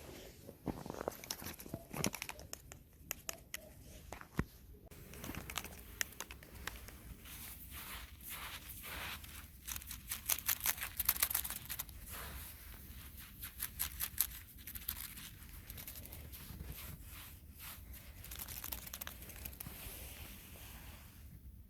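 Close-up rustling and crinkling handling sounds, with dense runs of small sharp crackles that are busiest in the middle.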